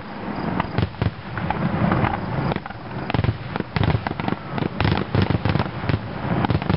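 Fireworks display going off: a rapid, irregular string of bangs and crackles.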